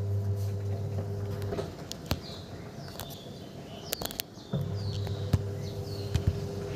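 LG top-load washing machine's motor driving the drum on a test spin: a steady hum that stops about a second and a half in and starts again about four and a half seconds in, with several sharp clicks in between.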